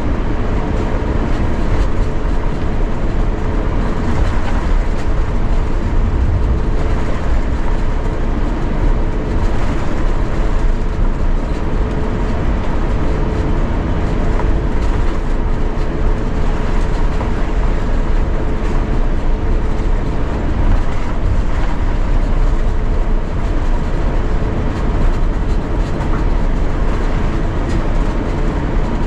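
Steady aircraft cabin noise inside an Airbus A350-900: a constant low rumble with a thin, steady mid-pitched hum running through it.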